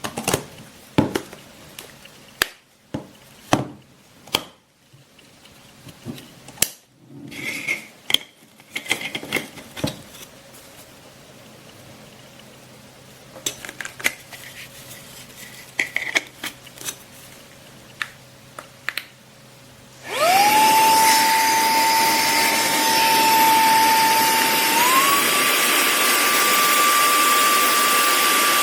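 A run of clicks and plastic handling knocks, then the Minthouz cordless handheld vacuum's motor starts with a rising whine and runs steadily with a rush of air. About five seconds later its whine steps up to a higher pitch, a higher speed setting.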